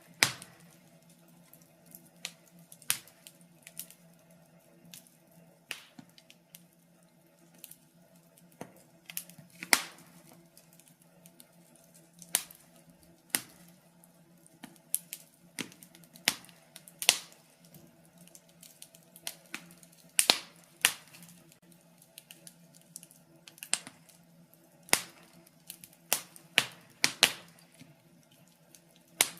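Wood fire crackling: irregular sharp pops and snaps, sometimes several close together, over a faint steady low hum.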